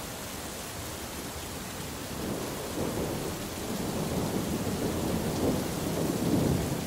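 Steady rain falling, with a low roll of thunder that builds about two seconds in, peaks near the end and then eases off.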